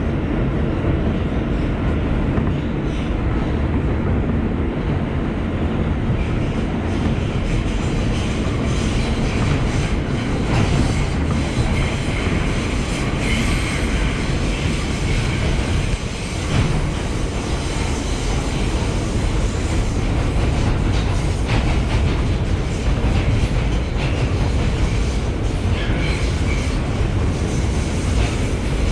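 Inside a New York City subway car in motion: the steady rumble of steel wheels on rail, with clicks from the rail joints. A faint higher wheel squeal rises around the middle.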